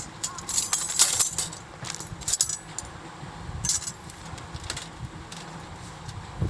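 Thin metal parts of a compact folding fire stand clinking and jingling as it is handled, in several short bursts of bright clinks, the busiest about a second in.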